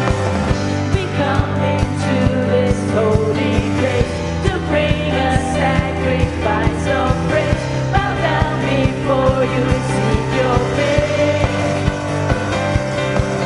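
Live worship band playing, with bass, drums and singing.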